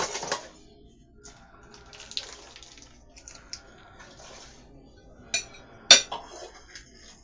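Plastic snack bag being handled: irregular crinkling and rustling, with a sharp click just before six seconds in.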